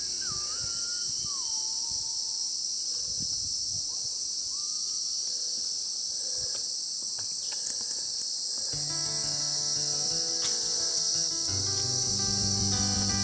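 Rainforest insect chorus, a steady high-pitched buzz, with a bird giving a few whistled, gliding calls in the first few seconds. Background music with sustained notes comes in about two-thirds of the way through.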